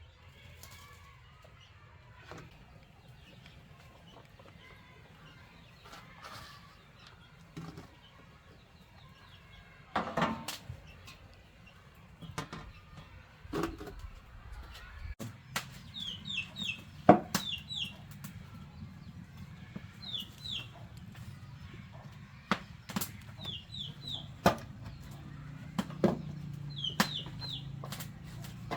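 Chickens clucking, with short, high, falling chirps in groups of two or three. Scattered sharp knocks and taps sound throughout.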